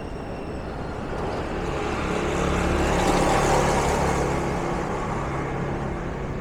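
A car driving past close by, its engine and tyre noise swelling to a peak about three seconds in and then fading away.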